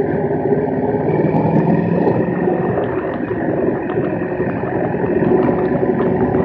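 Large-displacement motorcycle engine running steadily while riding, with wind rush on the bike-mounted camera's microphone.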